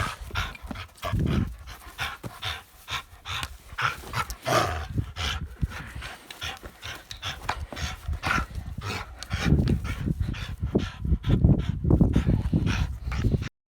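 A dog panting quickly close by, in short breathy strokes about three a second, with a low rumble joining in over the last few seconds before the sound cuts off abruptly.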